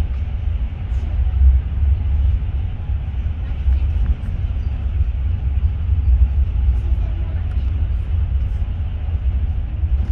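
Class 43 HST train running on the line, a steady low rumble that does not change, as heard inside the train.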